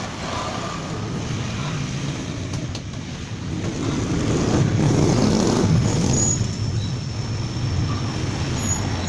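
Motor vehicle engine rumble with road noise, swelling to its loudest around the middle and easing off again.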